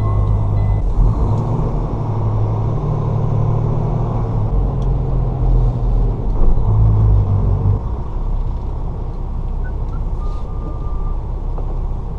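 Tractor-trailer's diesel engine heard from inside the cab as the truck pulls away, its low engine note stepping up and down in pitch several times through the first part, then settling into a steady run.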